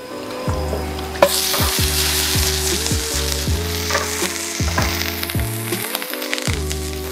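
Sliced onion sizzling in hot coconut oil in a frying pan. The sizzle starts suddenly about a second in and then runs on steadily.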